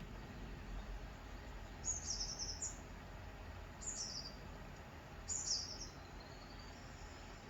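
A bird chirping in short phrases of high notes that slide downward, three times about one and a half to two seconds apart, over a steady low hum.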